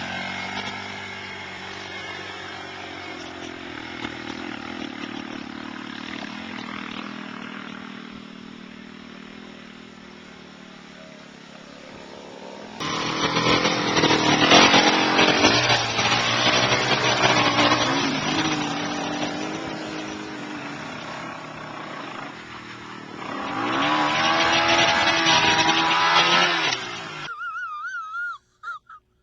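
Dirt bike engines revving under load on a hill climb. At first they are fainter and falling in pitch, then loud close revving starts suddenly about halfway in, with another rising rev near the end before the sound cuts off abruptly.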